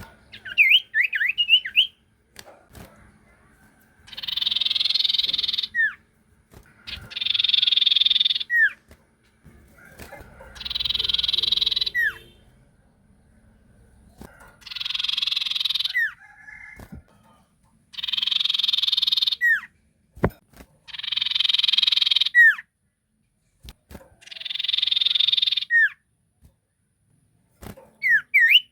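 Sirtu bird singing: seven buzzy, rattling phrases of about two seconds each, each ending in a short falling whistle, with quick chirping whistles at the start and again near the end.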